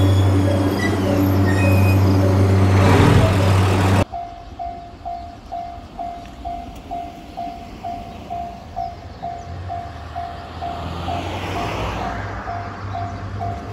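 JR Kyushu YC1 series hybrid railcar running past a station platform, a loud steady low engine hum with high whining tones over it. After a sudden cut about four seconds in, a railway level-crossing bell dings about twice a second, and a train is faintly heard approaching near the end.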